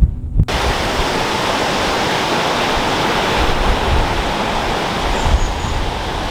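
Steady rush of fast-flowing water, starting abruptly about half a second in as the music cuts off.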